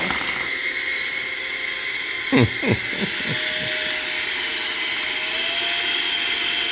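HŌM cordless electric air duster and mini vacuum running steadily, a whooshing air rush with a high motor whine. About two and a half seconds in, a few brief knocks from the unit being handled.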